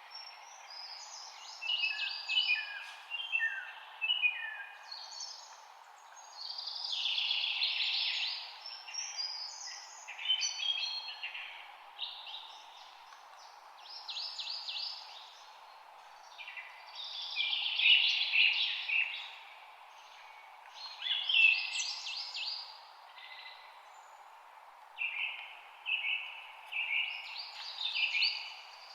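Songbirds singing in an evening spring chorus, phrases of quick chirps and trills coming every few seconds over a faint steady hiss.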